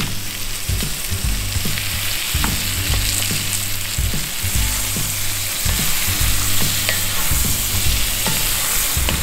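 Shrimp and sausage sizzling steadily in garlic butter in a hot pan, with a few light clicks.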